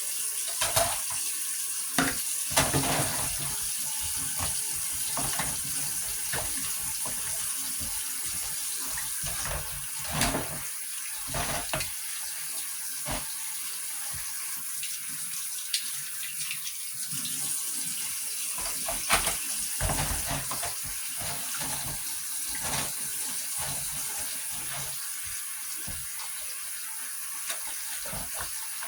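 Water running steadily from a tap, with scattered short knocks and clinks.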